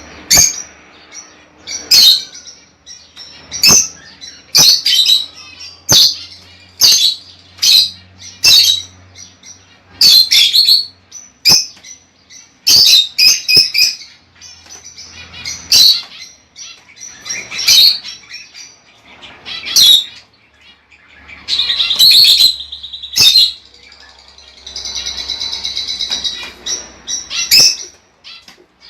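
Lovebirds calling: short, sharp, high chirps about once a second, with longer stretches of fast chatter in the last third.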